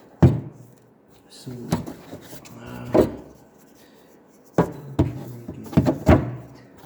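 Sharp plastic clicks and knocks from a car door's lock mechanism and its plastic retaining clip being pushed and pried by hand inside the door shell, about seven in all, the loudest a quarter second in and several close together in the second half.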